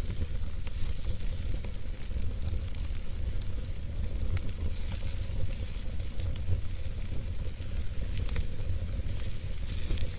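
Wood fire burning in a fireplace: a steady low rumble and hiss with irregular crackles and pops from the burning logs.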